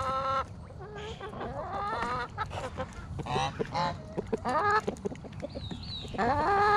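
Chickens clucking and squawking, several short overlapping calls, with a longer call that rises and then holds its pitch near the end.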